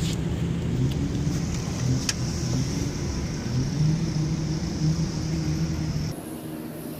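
Tractor engine running steadily, its pitch wavering slightly up and down. It gives way abruptly to a quieter hum about six seconds in.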